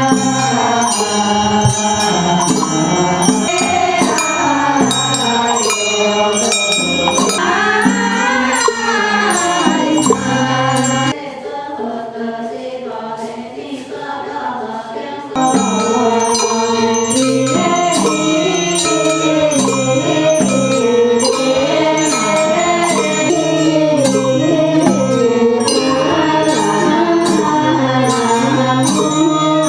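Buddhist chanting set to music: voices singing in unison over a steady beat of light percussion, dropping quieter for a few seconds in the middle.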